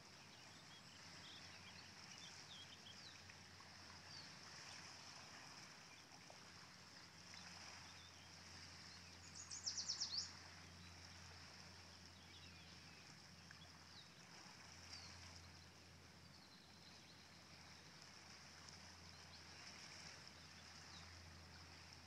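Faint scattered bird chirps over a steady high-pitched drone, with one bird's rapid trill of high notes, the loudest sound, about ten seconds in. A faint low hum runs underneath.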